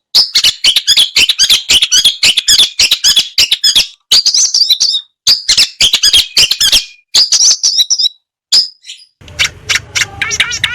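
Long-tailed shrike (cendet) song: rapid runs of harsh, scratchy chattering notes in bursts of a second or more, broken by short pauses. Just past nine seconds in, a different recording cuts in: a fast, even trill of repeated notes over a low hum.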